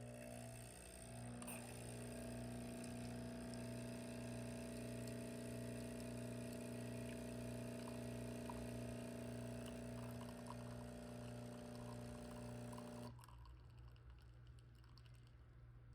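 A steady machine hum made of several fixed tones. It cuts off suddenly about thirteen seconds in, leaving faint room tone.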